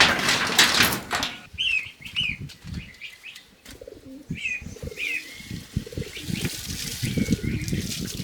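Birds: a flurry of wing flapping in the first second, then a series of short, hooked chirps repeated several times, with lower soft calls and scuffling underneath.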